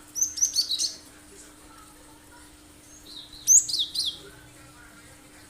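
Cinereous tit (gelatik batu) singing two bursts of sharp, quick, high-pitched chirps, the first just after the start and the second about three and a half seconds in.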